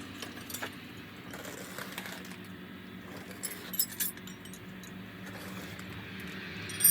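Scattered light metallic clinks and taps, a few at a time and one louder near the end, over a steady low hum.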